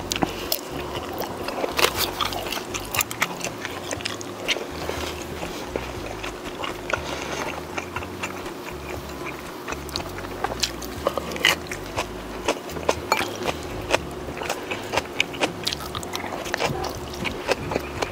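Close-miked chewing and biting of food, with many short sharp clicks and crunches scattered throughout.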